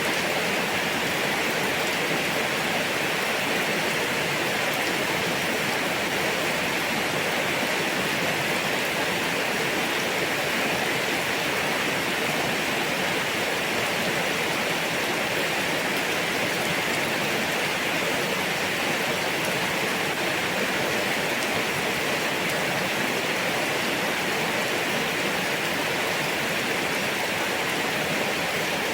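Steady rain falling without a break, heard as an even, dense hiss with no separate drops standing out.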